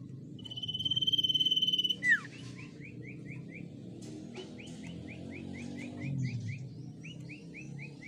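Common iora singing: one long steady whistle held about a second and a half, a sharp falling note, then runs of quick repeated rising chirps, about four or five a second.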